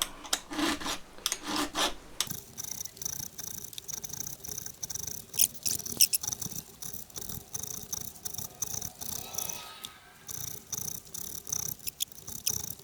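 A file scraping across the depth gauges (rakers) of a Stihl MS-661 chainsaw chain in short, even strokes, about two or three a second, lowering each raker a little. There is a brief pause near the end before the strokes resume.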